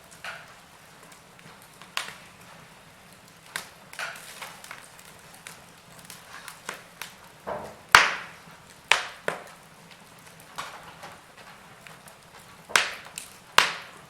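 Wood fire in a fireplace crackling: irregular sharp pops and snaps over a faint hiss, the loudest pop about eight seconds in.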